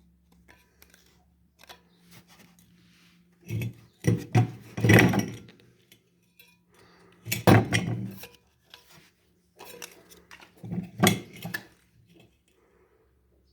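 Three bursts of handling noise, scraping and clinking, about four, seven and a half and eleven seconds in, over a faint steady low hum.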